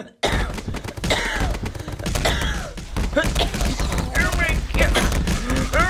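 A voice acting out a fake allergic fit, with strained groans and gasping cries. Under it runs a dense, rapid crackle of thumps with a heavy low end, starting just after a brief hush.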